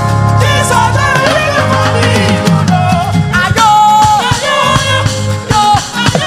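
Live gospel praise music: a lead singer over a band with a steady bass line and drums, holding one long note about halfway through.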